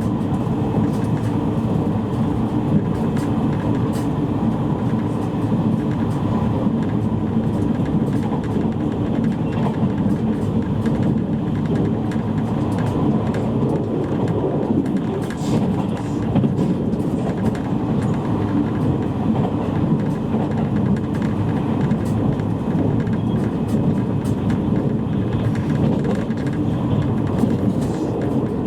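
Steady running noise inside a JR East E653 series electric train's motor car while under way: a dense low rumble of wheels, track and motors, with faint scattered clicks.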